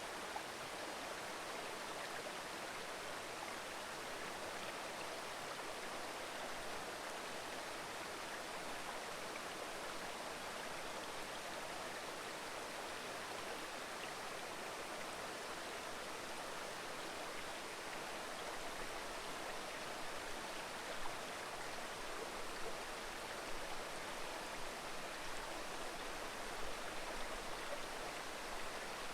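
Mountain river babbling over rocks: a steady, even rush of flowing water. A few soft low bumps come through in the last third.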